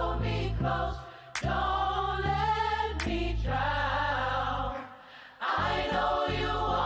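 Gospel choir singing over deep sustained bass notes, with the music breaking off briefly twice.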